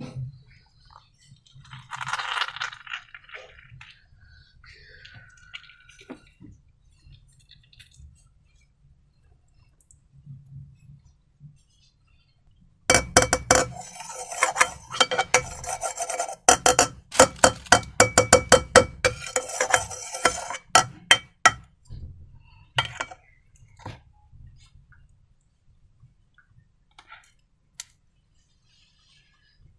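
Runs of quick, sharp clinks on something hard that rings, many strikes in a row from about 13 to 21 seconds in. Earlier there are softer handling and scraping sounds.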